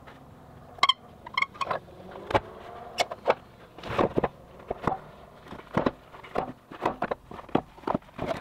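A run of sharp, irregular knocks and clatters, a few with a brief ringing tone.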